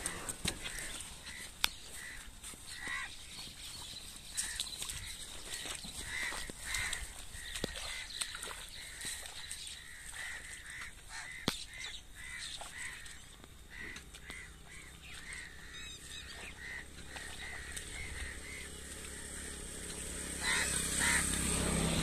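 A bird calling over and over in short notes, about two a second, with scattered faint clicks. Near the end, footsteps splashing through wet grass come close and grow louder.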